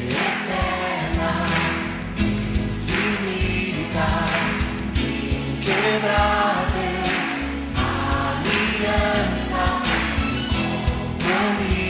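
Christian worship song: voices singing a melody over instrumental accompaniment with a steady beat.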